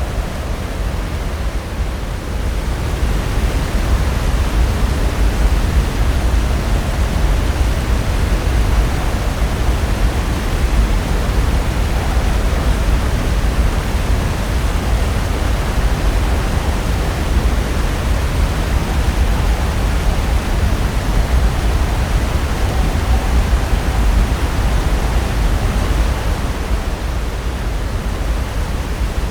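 Pacific Ocean surf: a continuous roar of breaking waves, swelling a couple of seconds in and holding steady.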